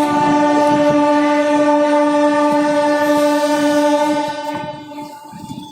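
Train horn sounding one long, steady blast that fades away about five seconds in.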